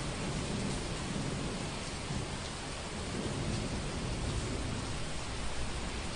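Steady heavy rain, an even hiss, with a low rumble in the first half.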